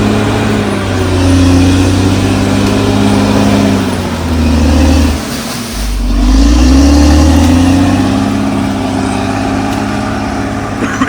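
Caterpillar D6R XL bulldozer's diesel engine working under changing load, its pitch sagging about five seconds in and climbing back up a second later.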